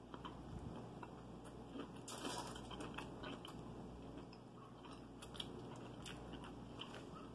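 Faint close-up chewing of a bite of Chicago-style hot dog, with scattered small wet clicks and crunches, busiest about two seconds in.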